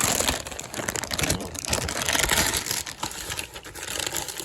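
A small shipping package being handled and opened: dense crinkling, rustling and crackling of packaging material.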